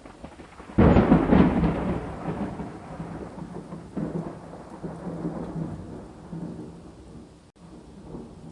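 Thunder: a sudden loud crack about a second in that rolls away as a long rumble, swelling again near the middle, over steady rain.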